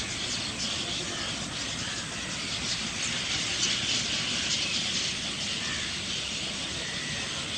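A steady din from a large flock of chestnut-tailed starlings, with many short calls running together into a hissing chatter over a low rumble.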